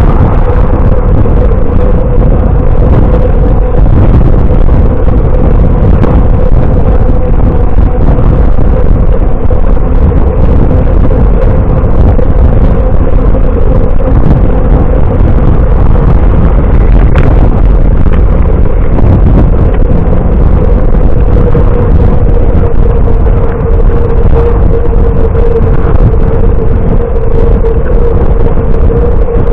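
Heavy wind rushing over a camera microphone on a moving bicycle, with a steady mid-pitched hum underneath.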